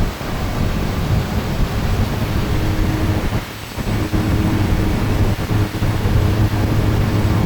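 Propeller-driven light aircraft heard from inside the cabin: a steady low engine drone under loud rumbling noise, dipping briefly about three and a half seconds in.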